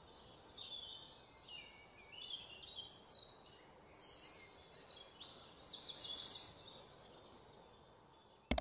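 Small birds chirping, with fast trills of high repeated falling notes. A single sharp click comes near the end.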